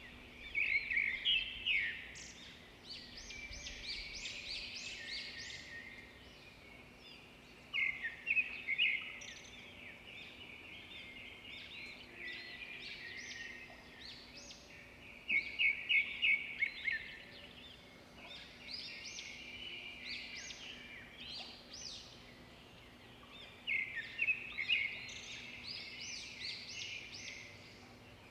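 Zebra finches calling: a flock chattering, with loud bursts of quick repeated calls every several seconds.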